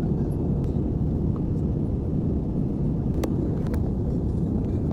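Steady low rumble of a jet airliner cabin in flight, with two sharp clicks a little over three seconds in.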